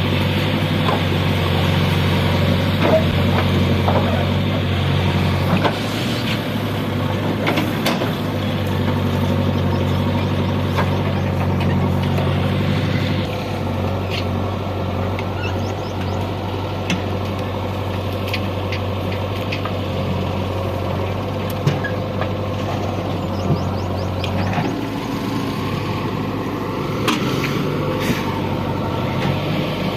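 JCB 3DX backhoe loader's diesel engine running under changing load while loading mud. Its note shifts about five seconds in, again near the middle, and drops back near the end. Scattered sharp knocks and clanks come from the working machinery.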